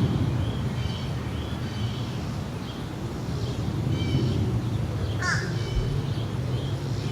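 Low, steady rumble of a departing jet airliner's engines, still lingering after takeoff. A crow caws once about five seconds in, and small birds chirp faintly.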